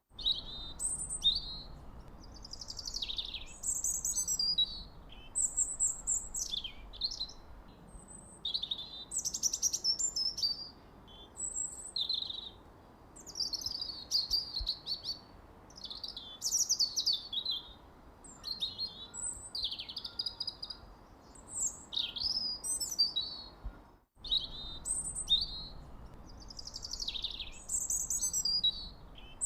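Small birds chirping, many quick high calls and trills following one another without pause, over a faint low hiss. The sound drops out for an instant about 24 seconds in.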